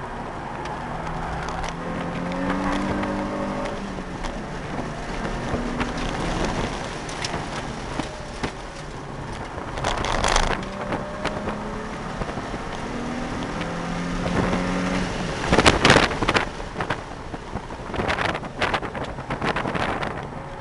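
Nissan 350Z's 3.5-litre V6 engine heard from inside the cabin while being driven hard on track, its note shifting up and down in pitch. Short loud bursts of noise come about ten seconds in and again from about sixteen seconds on.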